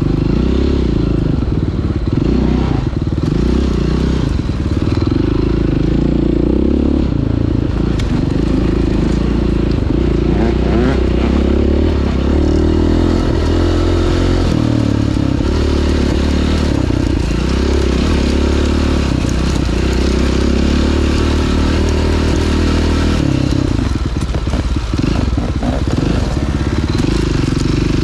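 Single-cylinder enduro dirt bike engine running under load on a trail ride, its revs rising and falling with throttle and gear changes, with clattering rattles from the bike over rough ground.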